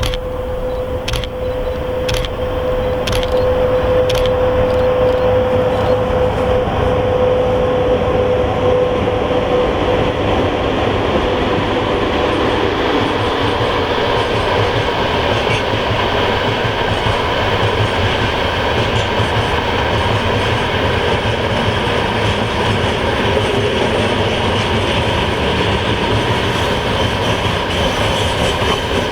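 A Russian freight train rolling past, its wheels clicking over the rail joints with a dense rumble of wagons. A steady whine runs through the first ten seconds and then fades, and a fainter high ringing from the wheels runs through the later part.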